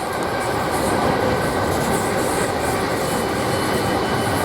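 South Western Railway Class 458 electric multiple unit running past, a steady noise of wheels on track. A faint high whine joins about three seconds in.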